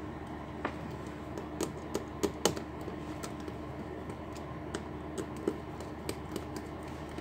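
Scattered light clicks and taps of hands and small tools working on a laptop's hinge area, the sharpest a little over two seconds in, over a steady faint hum.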